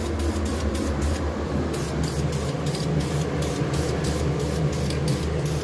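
Aerosol spray paint can hissing as paint is sprayed onto an exhaust muffler, with a short break about a second in.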